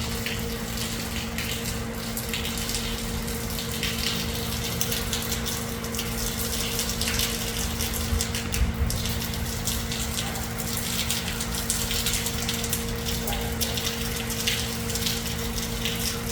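Water running steadily from a water-tank spout, with a steady electric hum underneath.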